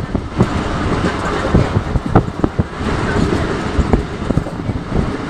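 Train running along the track: a steady rumble with irregular sharp clacks and knocks of the wheels and carriage.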